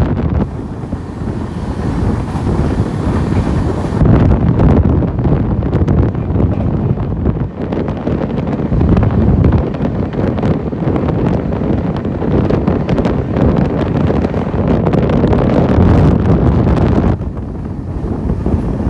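Running noise of a moving passenger train heard from aboard, a dense rumble of wheels on the track with heavy wind buffeting the microphone. It eases a little near the end.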